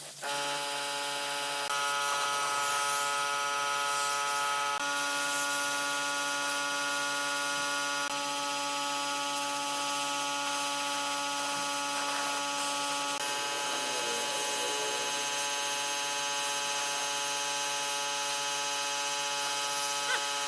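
Power tool motor running steadily with an even whine, its tone shifting slightly about 13 seconds in.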